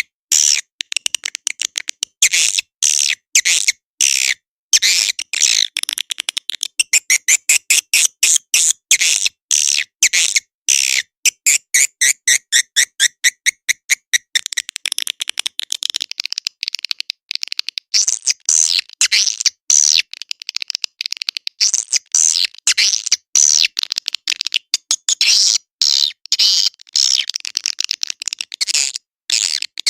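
Swiftlet lure call track: edible-nest swiftlets chirping and twittering in fast, dense trains of short high-pitched pulses, broken by brief gaps.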